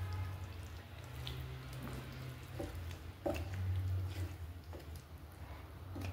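Kitchen sounds while chicken cooks: a steady low hum with faint watery sounds and a few light knocks.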